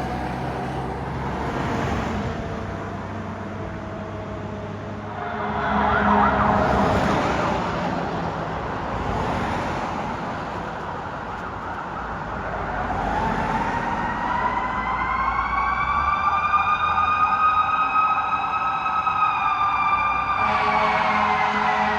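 Fire apparatus siren on a response: a wail falling away at first, then a slow wind-up to a steady high tone that starts to fall again near the end, over vehicle noise. A louder rush of noise comes about six seconds in.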